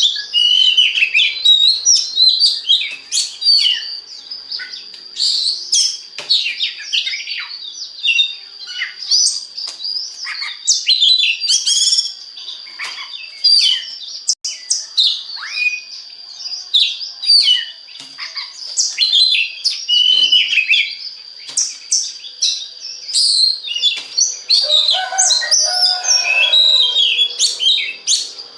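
Oriental magpie-robin (kacer) in full song: a long, unbroken stream of quick, varied whistles and chirps, with a few lower notes near the end. A steady high tone runs underneath throughout.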